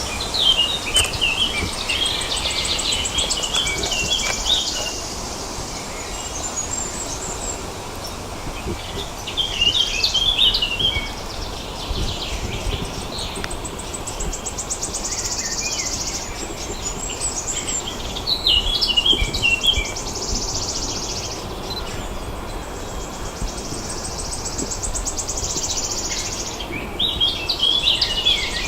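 Songbirds singing: short, jittery song phrases recur every several seconds, with a separate high, rapid buzzing trill coming and going between them, over a steady background hiss.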